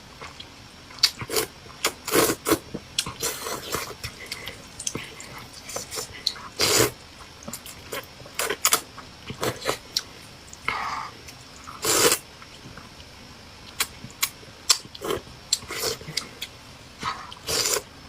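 Close-up eating sounds: glass noodles being slurped and chewed, in short irregular bursts with a few longer slurps.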